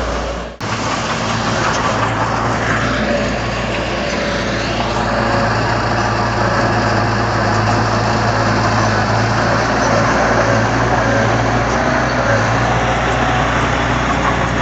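Heavy diesel earthmoving machine engine running steadily under work, a deep even hum with rough mechanical noise over it. The sound drops out briefly about half a second in, then comes back.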